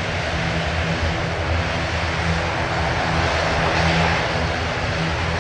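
ATR 72-500's twin turboprop engines running at takeoff power: a steady, loud propeller drone over a broad rushing hiss.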